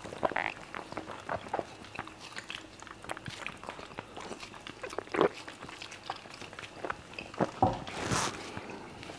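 Close-miked eating sounds: wet chewing, lip smacks and squishes as fufu dipped in peanut spinach soup is eaten by hand, in an irregular run of short clicks, with a louder, longer sound about eight seconds in.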